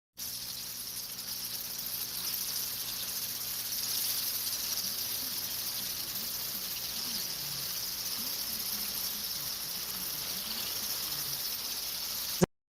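A steady, high-pitched chorus of insects, ending in a short sharp click as the recording cuts off.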